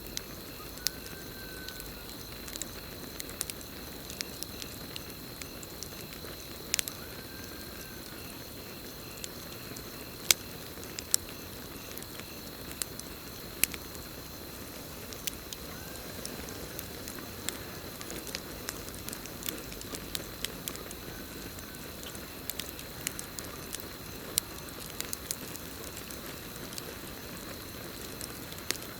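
Campfire burning with a low, steady rush and irregular sharp crackles and pops, over crickets trilling in a steady high tone. A faint short rising-and-falling call recurs every five or six seconds.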